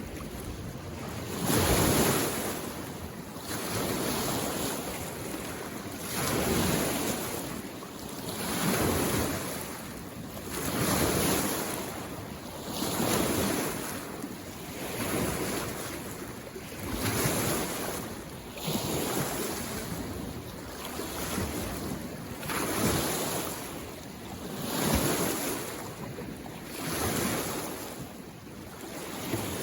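Small waves lapping on a lake shore, each one a wash of water that swells and fades, coming in steadily about every two seconds.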